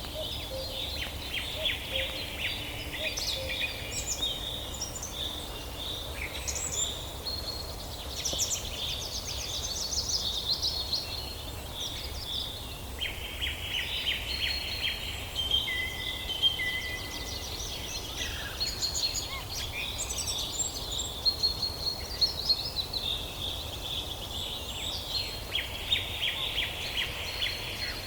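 A chorus of several songbirds singing at once, overlapping trills, rapid chattering phrases and high whistled notes, over a faint steady background hum.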